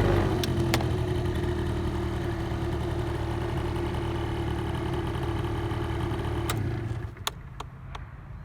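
Honda Live Dio AF35 scooter's 50cc two-stroke engine idling, easing slightly lower in pitch at first, then shutting off about seven seconds in. A few sharp clicks follow.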